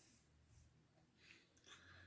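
Near silence: quiet room tone, with a couple of faint, brief high-pitched sounds in the second half.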